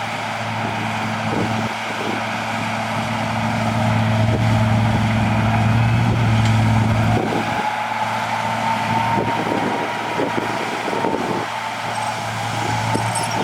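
Heavy diesel earthmoving machinery running under load, the engine note swelling towards the middle and easing off about seven seconds in. A faint whine rises slowly in pitch through the second half.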